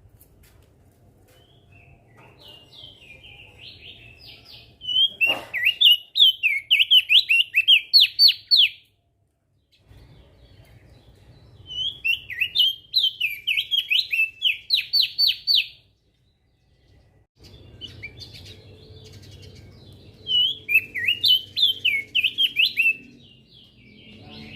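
Crested darkeye (opior jambul) singing: three loud bursts of fast, rapidly repeated high notes, each a few seconds long, with softer chirps before the first burst.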